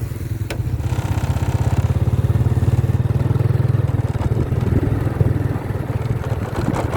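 Small motorcycle engine running steadily while riding, a rapid low pulsing throb that grows a little louder about a second in.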